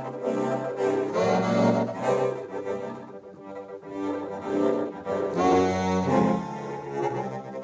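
Suzuki Sirius S48B bass chromatic harmonica playing a slow series of held low notes, heard through a modulation effects pedal with reverb added.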